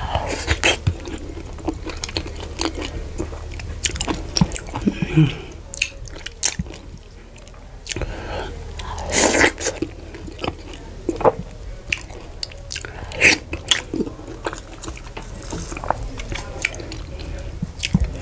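Close-miked eating sounds of fufu with vegetable soup, eaten by hand: irregular wet chewing, lip smacks and mouth clicks, over a steady low hum.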